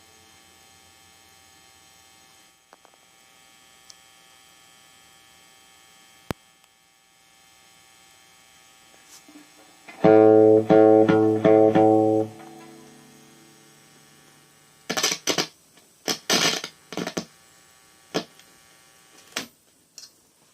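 Electric guitar amplifier, a ZT Lunchbox Jr, sitting idle with a steady mains hum: the ground noise fault the owner is chasing. About ten seconds in, a guitar chord is strummed four times through it and left to die away, followed by a run of sharp loud crackles.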